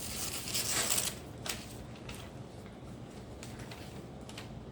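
A freshly sharpened karambit blade slicing through material in a cutting test: a brief hiss lasting about a second, followed by a couple of light clicks.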